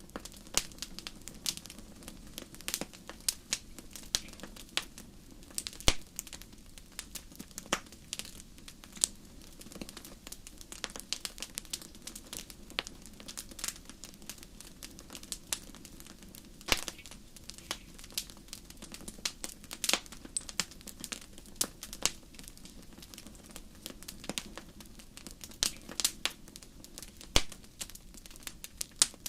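Fire burning in a fireplace, crackling with irregular sharp pops over a steady low rush of flame.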